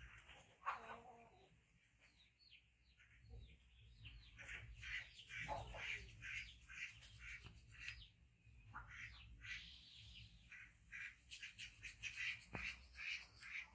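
Faint chirping of small birds: short high chirps, sparse at first, then several a second from about four seconds in.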